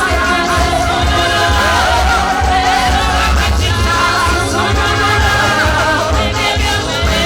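Live gospel praise and worship music: a group singing over a steady bass beat.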